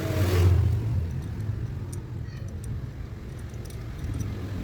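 A car engine running with a steady low rumble that swells briefly in the first second. A few faint metallic clinks come about two to three seconds in.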